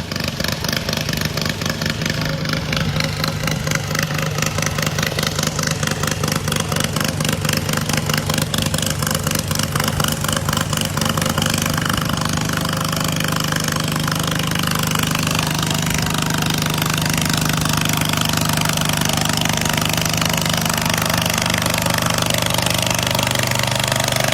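Garden pulling tractor's engine running hard under load through a pull, a loud, fast, even pulsing at a nearly constant pitch that builds a little over the first few seconds.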